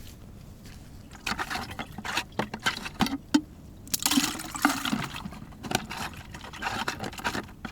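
Water splashing in a small jar holding a freshly caught crucian carp, in a series of irregular splashes and sloshes.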